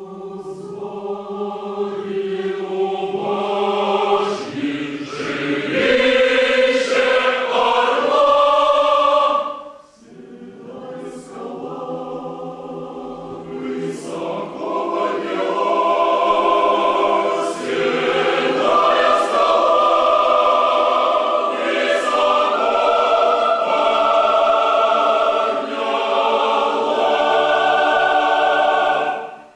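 A choir singing in several parts, with chords moving together. It swells to a loud phrase, breaks off briefly just under ten seconds in, then starts again softly and builds back to full voice.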